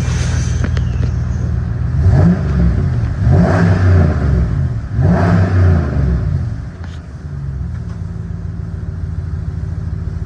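The 2009 Dodge Ram 1500's 5.7-litre Hemi V8 idles, is revved three times in quick succession about two seconds in, then settles back to a steady idle.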